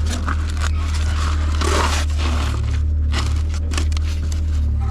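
Scraping, crinkling handling noises with scattered clicks over a steady low drone, and a short hiss about two seconds in.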